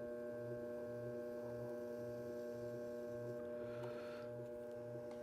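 Electric pottery wheel's motor running at a steady speed with an even hum, with a low throb pulsing about twice a second. It cuts off abruptly at the end.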